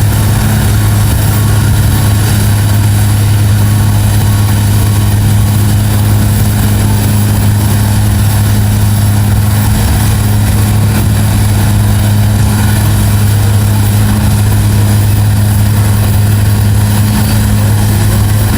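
Heavy engine idling steadily, a deep even drone that holds the same pitch throughout.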